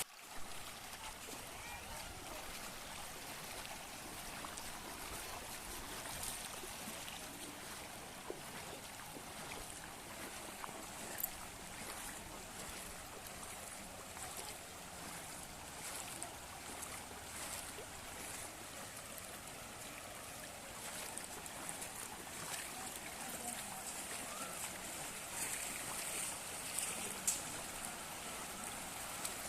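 Steady wash of flowing floodwater, with scattered faint ticks and splashes.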